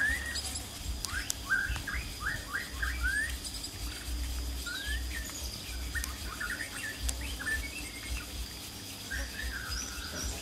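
Small bird chirping: clusters of short, quick rising chirps, with a faint steady high whine underneath.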